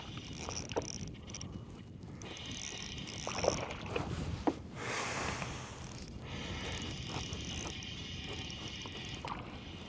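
Fishing reel being cranked to retrieve a surface lure, a steady fine mechanical whirring that runs in two stretches with a short pause between them.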